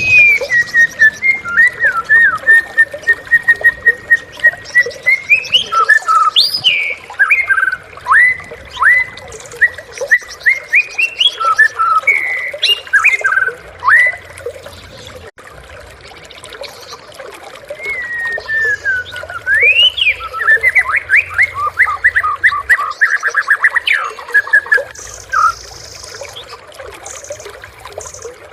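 White-rumped shama (murai batu) singing loud, varied phrases of clear whistles and quick sweeping notes. The song pauses for a few seconds near the middle, then resumes with a phrase that ends in a fast run of repeated notes.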